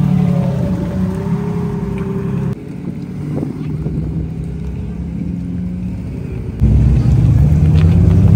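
Supercar engines running, heard in three cut-together shots. First a Lamborghini Murciélago's V12 idles with a steady note. About two and a half seconds in, the sound drops to a quieter engine idle. From about two-thirds in, a louder low engine sound comes from a Nissan GT-R pulling away.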